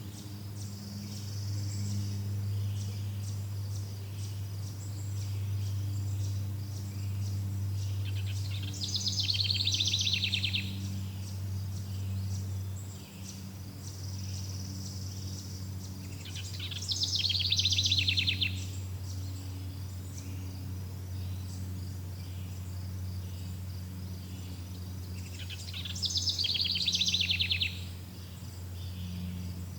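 Forest ambience: a bird gives a loud, fast trilled call of about two seconds three times, roughly every eight to nine seconds. Under it run a steady high insect buzz and a low steady hum.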